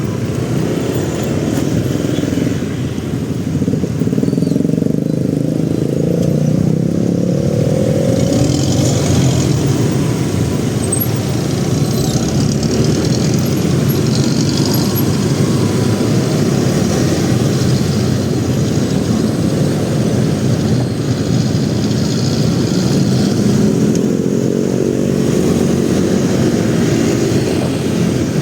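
Motorcycle running through city traffic, its engine note rising and falling a few times over steady road noise.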